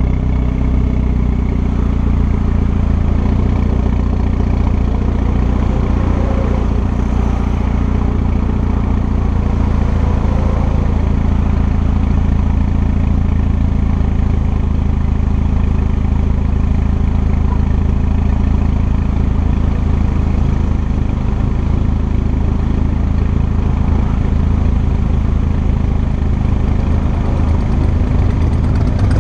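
Mitsubishi Lancer Evolution X turbocharged four-cylinder engine idling steadily through an AMS widemouth downpipe, AMS cat and AMS cat-back twin-tip exhaust.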